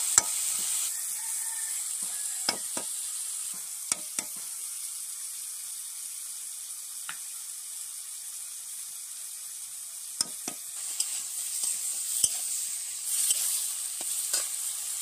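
Vegetables sizzling in oil in an iron kadai while being stir-fried with a metal spatula, with a steady hiss and about ten short, sharp clinks spread through it. The sizzle is loudest at the start and again near the end.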